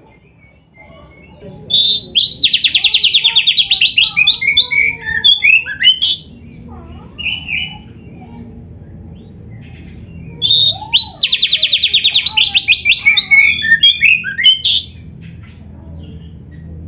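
Oriental magpie-robin (kacer) singing in two loud phrases, each opening with a rapid trill and running on into varied whistled notes, with a few quieter calls between them. A faint low hum lies underneath.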